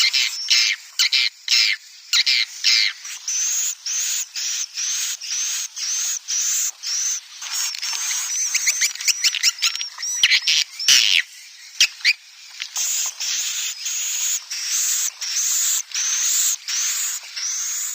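Swiftlet calls: a continuous run of short, high chirping twitters, about two a second, many ending in a rising sweep. A few sharp clicks cut in about halfway through. This is the kind of swiftlet call played to lure the birds into nesting.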